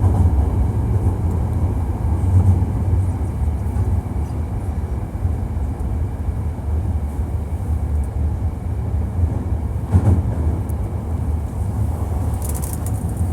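Hankyu 1300 series electric train running through a subway tunnel, heard from inside the car: a steady low rumble of wheels and running gear, with a single sharp clack about ten seconds in.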